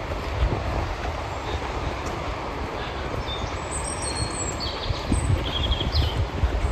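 Steady outdoor rain-and-wind noise with a gusty low rumble underneath. A small bird gives a few short, high chirps in the second half.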